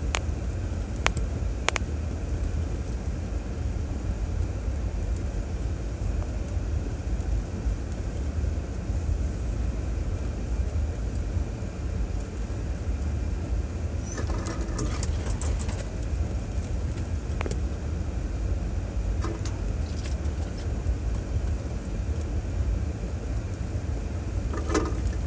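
Steady low rumble of a 2006 Chevrolet Trailblazer driving slowly over a dirt trail, heard from inside the cabin, with scattered clicks and knocks, most of them bunched past the middle and near the end.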